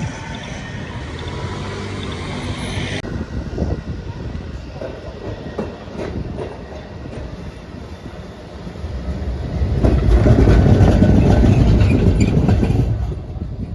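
Trams on rails: a high wheel squeal in the first few seconds, then after a sudden change, clicks of wheels over rail joints and a low running noise that swells as a tram passes close, loudest about two-thirds of the way in, then fading near the end.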